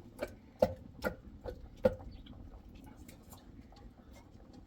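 A steady run of sharp knocks, about two and a half a second, each with a short ringing tone. Five strikes are heard before they stop about two seconds in, and faint scattered ticks follow.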